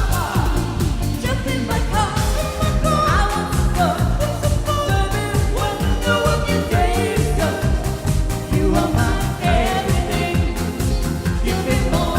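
Pop song medley performed by a singer with a band: a sung melody over a steady beat.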